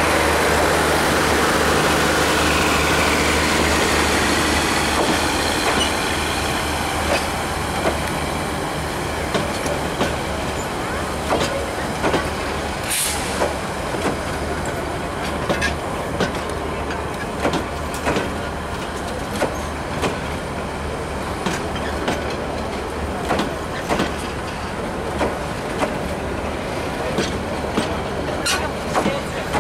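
Bangladesh Railway passenger coaches rolling slowly past with a steady rumble. From a few seconds in, the wheels clack over the rail joints in regular pairs about every two seconds.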